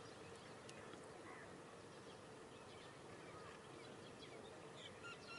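Near silence in a pause of speech: faint background hiss with a few faint, short bird chirps.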